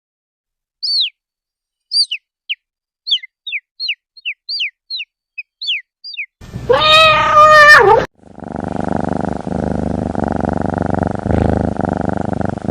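Animal sound effects in sequence: a dozen short, high, falling chirps from a small bird, then one loud drawn-out cat meow that drops in pitch at its end, then a continuous low rhythmic cat purr.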